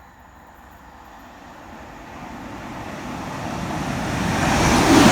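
A train approaching, its rumble and wheel noise swelling steadily to a peak near the end.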